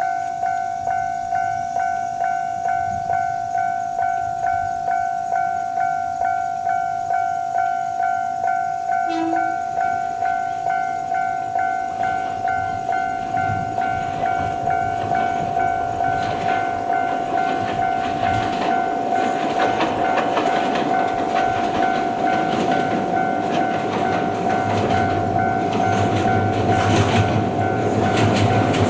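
Electronic level-crossing alarm ringing at an even beat as an Ohmi Railway electric train approaches. The train's wheel and motor noise grows louder over the last dozen seconds.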